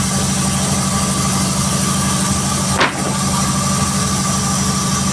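Sawmill's engine running steadily at idle, with a steady high whine over the low hum and one sharp knock almost three seconds in.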